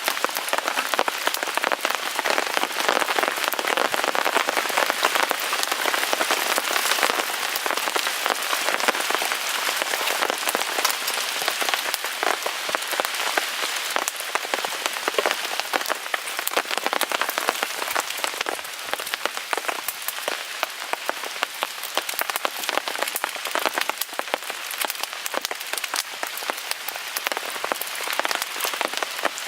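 Steady rain falling on a tarp overhead, mixed with a wood fire crackling in a Picogrill 398 fire pit, the whole thick with small sharp ticks and pops.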